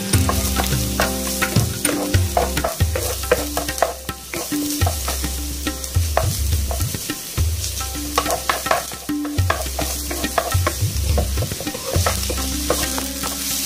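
Chopped onion and garlic sizzling in hot oil in a nonstick frying pan, stirred with a spatula that scrapes and taps against the pan many times.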